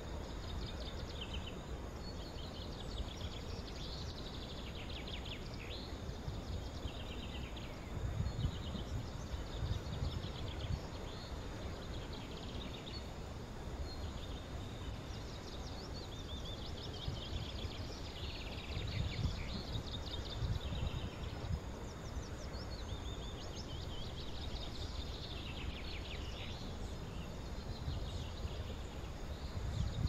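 Several wild birds chirping and trilling on and off over a steady outdoor hiss, with low rumbles of wind on the microphone swelling up a few times.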